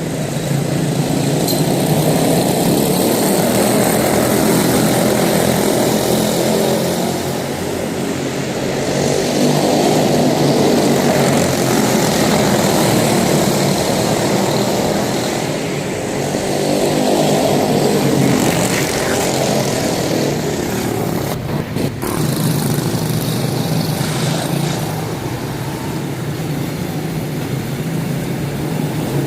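Several quarter midget race cars' small single-cylinder Briggs & Stratton Animal engines running around a short oval. The sound swells and fades about every seven to eight seconds as the pack passes.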